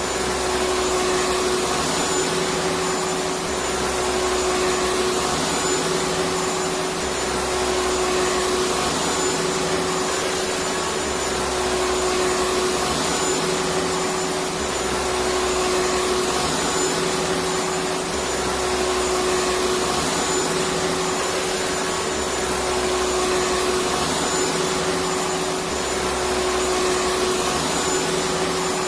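Electric vacuum cleaner running steadily: an even rushing hiss with a constant motor hum, and a low rumble that swells and fades every couple of seconds.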